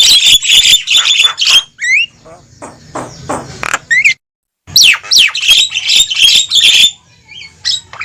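A flock of Javan mynas calling noisily: dense harsh squawks and chatter mixed with short rising whistles. The sound cuts out completely for about half a second halfway through, then the chorus resumes.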